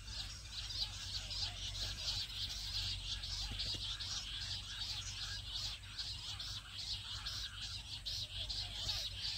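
High-pitched bird chirping repeated rapidly, several notes a second without a break, over a faint steady low hum.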